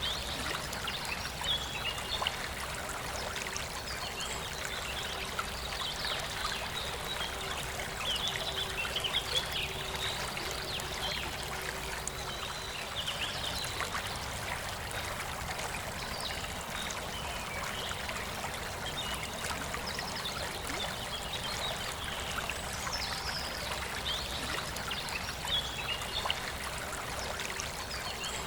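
Forest river flowing steadily, with birds singing short chirping phrases over it every few seconds.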